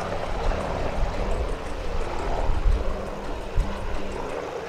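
UH-60 Black Hawk helicopters running, a steady wash of rotor and turbine noise with a low rumble.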